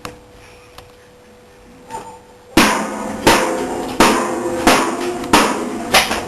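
A hammer repeatedly bashing a computer, heavy blows about every 0.7 s starting about two and a half seconds in.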